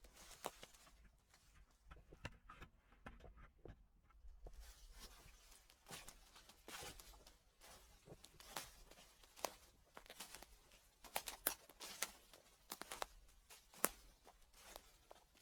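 Faint footsteps crunching through dry fallen leaves: crisp crackles and rustles, sparse in the first few seconds and then coming more thickly.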